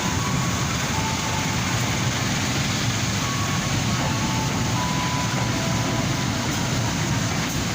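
Train running through the station: a steady rumble and rush of wheels on rails, with thin high tones coming and going above it.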